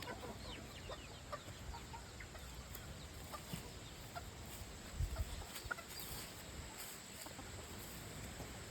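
Chickens clucking faintly in scattered short calls, with a soft thump about five seconds in.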